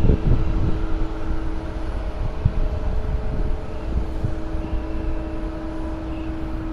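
Steady mechanical hum holding a few level tones, over low rumbling wind on the microphone.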